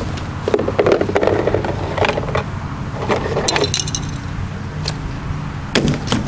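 Box fan packaging being handled: several bursts of rustling and scraping as parts are pulled from a torn-open cardboard box, over a steady low hum.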